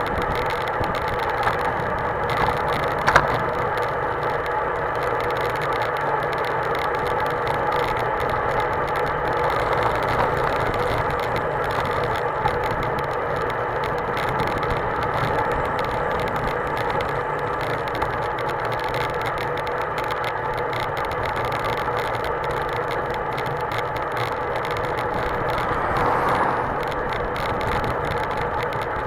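Mountain bike riding along the road: a steady hum of the tyres rolling, with strong wind rumbling on the microphone.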